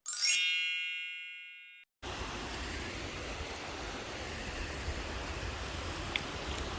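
A bright chime rings once and fades away over about two seconds, cutting off abruptly. Steady background noise with a low rumble follows.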